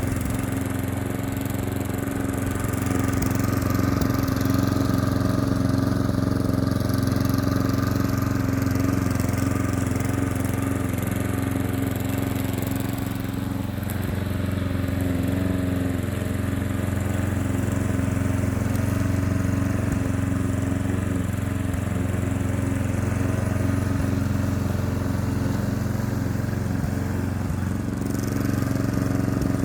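Klippo petrol lawn mower engine running steadily at an even speed while mowing, with slight swells in loudness.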